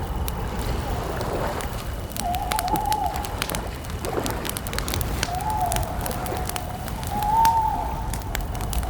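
Wood campfire crackling with frequent sharp pops, over a low rumble. A bird calls three times in short, wavering, cooing notes.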